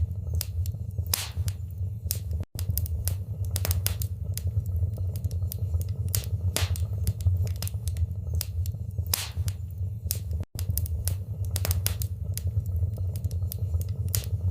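Wood fire burning in a fireplace: irregular sharp crackles and pops over a steady low rumble of the flames. The sound cuts out for an instant twice.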